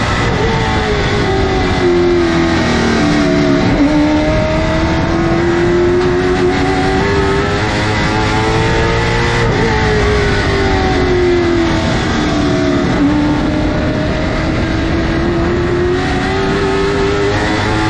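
Late model stock car's V8 engine running laps: the pitch drops as the driver lifts off into a turn, then climbs steadily under acceleration. This happens twice, about nine and a half seconds apart.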